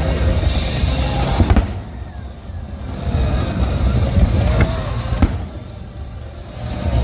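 Aerial fireworks bursting over a continuous low rumble, with sharp bangs about a second and a half in and again about five seconds in, and a few short whistles that rise and fall. Music plays underneath.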